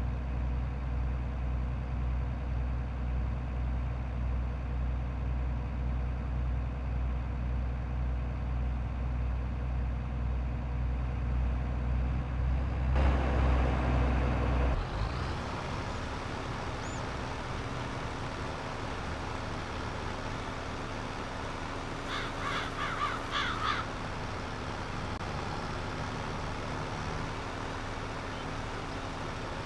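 Tractor engine running steadily, louder for a couple of seconds about 13 seconds in, then running on with a noisier, lower sound. About two-thirds of the way through, a bird calls several times in quick succession.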